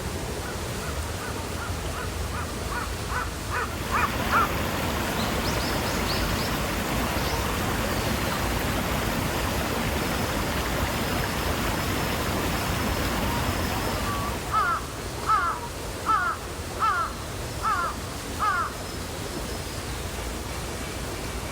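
A crow cawing over the steady rush of a small garden waterfall. A run of quick calls comes in the first few seconds, then six louder, evenly spaced caws about two-thirds of the way through.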